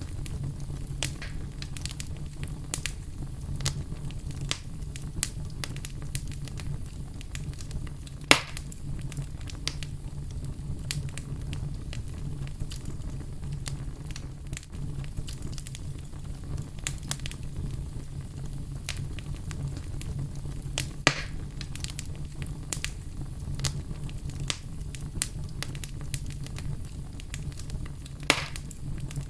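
Fire crackling steadily over a low rumble of flames, with frequent small crackles and three sharp louder pops: one about eight seconds in, one around twenty seconds in, and one near the end.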